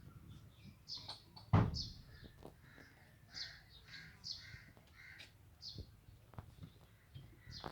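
Birds calling in a run of short repeated calls, with scattered clicks and one loud thump about a second and a half in.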